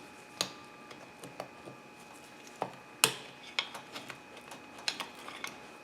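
Small metal clicks and clinks at an uneven pace, the loudest about three seconds in: a screwdriver prying the retaining clips off fuel injectors on a fuel rail, and the clips being set down.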